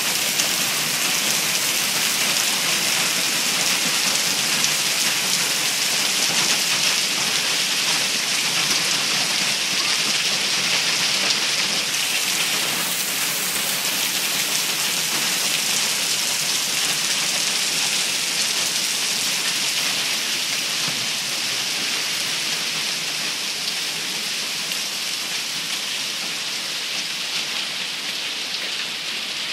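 Hail coming down hard: a dense, steady hiss and patter of hailstones striking surfaces, easing slightly over the last few seconds.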